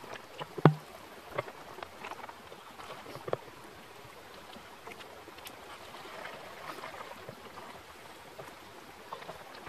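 Water splashing and running, with several sharp knocks and clicks in the first few seconds, the loudest a little under a second in.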